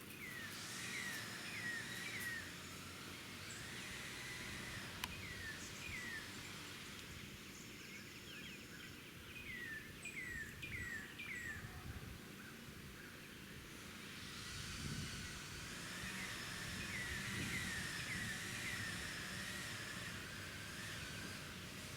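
Small birds calling outdoors: short notes that drop quickly in pitch, in quick runs of two to four, over steady background noise, with a single sharp click about five seconds in.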